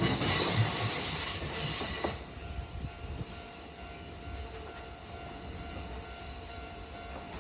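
Train wheels squealing and running on the rails, loud at first and falling away sharply about two seconds in, leaving a quieter steady low background.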